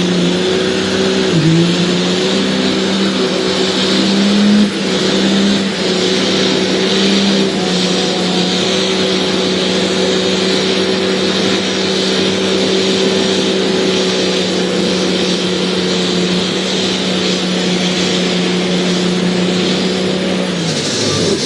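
Cummins diesel drag truck doing a timed burnout: the engine is held at high revs with a steady hiss from the spinning tyres, dips briefly about a second and a half in, then falls off near the end as the burn finishes.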